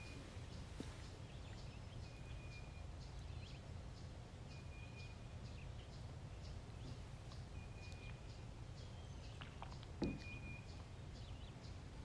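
Faint outdoor ambience of wild birds: one bird repeats a short, steady high note about every two and a half seconds among scattered tiny chirps, over a low steady rumble. A single sharp knock sounds about ten seconds in.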